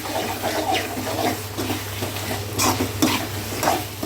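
Spoon stirring and scraping pepper chicken fry in a pan with irregular strokes, over the steady sizzle of the chicken frying in the oil that has separated from the masala.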